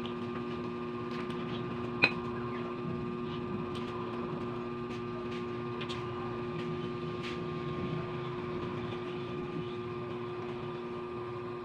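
Wet chewing and small mouth clicks from a person eating meat with her hands, over a steady mechanical hum. One sharp click about two seconds in.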